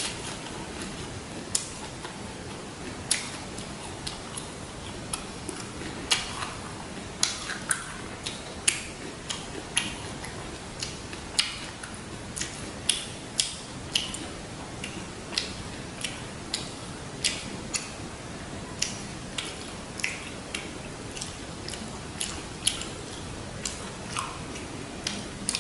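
Close-miked chewing of a mouthful of fresh lettuce: sharp, irregular crunches and wet mouth clicks, about one or two a second.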